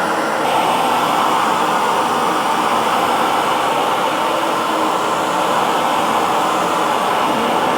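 Hair dryer running steadily with an even blowing noise. Its hiss turns slightly brighter about half a second in, then stays constant.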